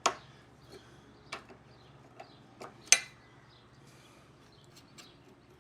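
Scattered light metallic clinks and taps of tools and engine fittings being handled, a sharp one at the start and the loudest about three seconds in, with softer ticks between.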